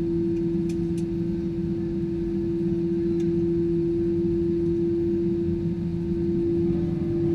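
Steady airliner noise from an Airbus A320-214: a constant rumble with a droning hum that holds one pitch throughout.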